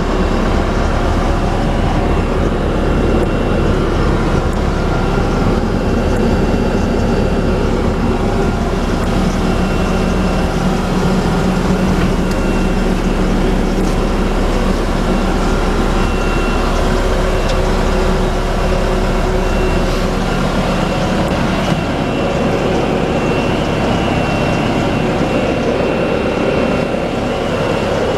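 Bobcat T740 tracked skid steer's diesel engine running steadily. About 21 s in, the deepest part of the rumble falls away while the engine keeps running.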